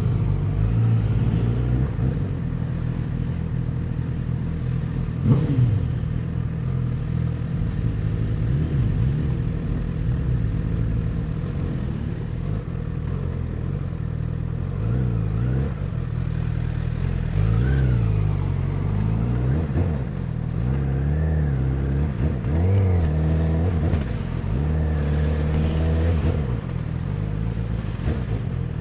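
2017 Honda CBR1000RR's inline-four engine running on the move. Its pitch rises and falls several times in the second half as the bike accelerates and eases off.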